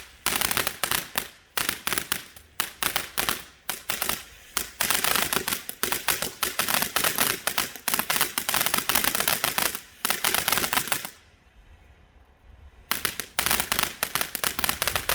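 A garden firework going off in a rapid run of sharp cracks, like a crackling barrage. It stops for a couple of seconds near the end, then starts again.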